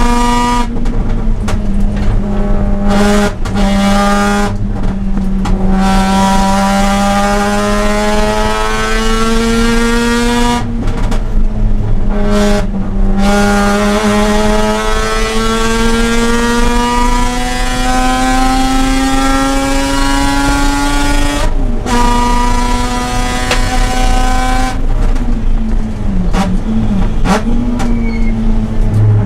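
Mazda RX-8's two-rotor rotary engine at racing load, its pitch climbing steadily through each gear with brief breaks at the shifts and lifts between pulls.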